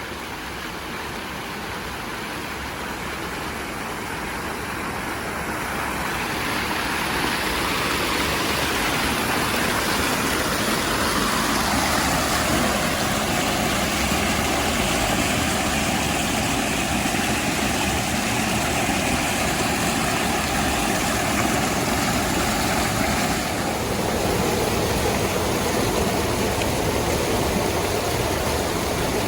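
Spring and creek water rushing high after heavy rain: a steady, even rush that grows louder over the first several seconds and then holds.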